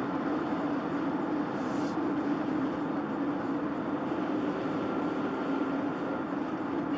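Steady noise of a moving vehicle heard from inside its cabin: an even, unbroken drone of engine and road noise.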